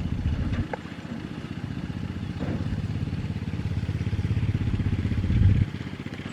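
Kubota DC-70 combine harvester's diesel engine running with a steady low pulse. It dips in level about a second in, swells near the end, then falls off sharply.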